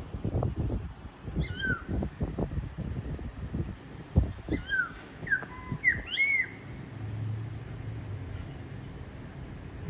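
A songbird calling with short curved whistled notes: one about a second and a half in, then a quick run of about four notes midway. Irregular low thumps and bumps are heard under the first half.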